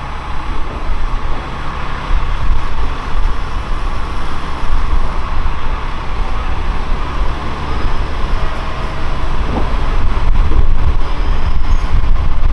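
Tarumi Railway diesel railcar pulling into the station, its engine and wheels rumbling on the track, getting louder about ten seconds in as it comes close.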